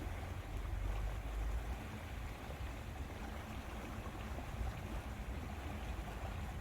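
Steady lakeside ambience: a low rumble of wind on the microphone over an even wash of water.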